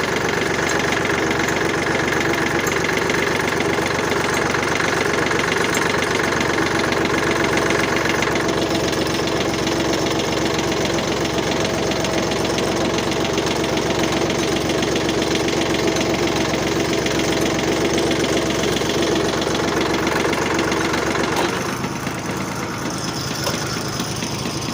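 Yanmar three-cylinder diesel tractor engine running steadily, its note changing about eight seconds in and dropping a little in level near the end.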